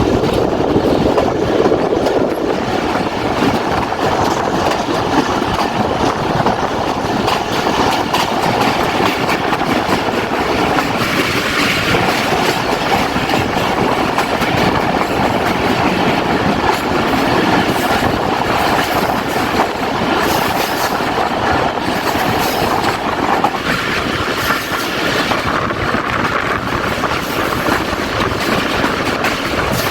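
Jaffar Express passenger train running along the track, its wheels clattering steadily over the rails.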